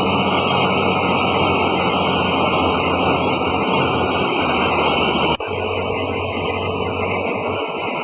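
A motor running steadily under a loud, continuous rush of noise, with an abrupt cut about five seconds in to a similar engine-and-noise sound.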